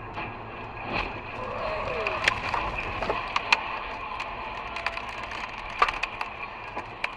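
A dull thump about a second in, then an irregular run of sharp cracks and clicks for several seconds over a steady background noise.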